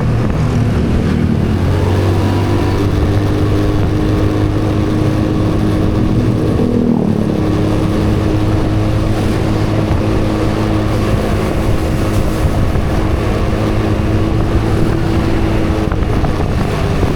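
A vehicle engine running at a steady speed, its hum shifting slightly in pitch a couple of times, under a constant rushing noise.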